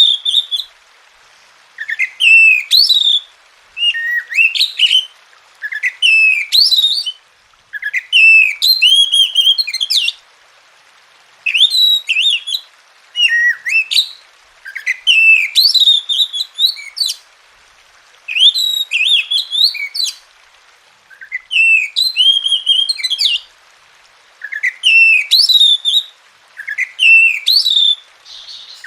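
Oriental magpie-robin (kacer) singing: a run of loud whistled phrases, each about a second or two long, with short pauses between them.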